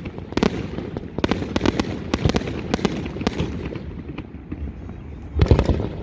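Fireworks display going off close by: a rapid run of sharp cracks and pops that thins out, then a heavy low boom near the end.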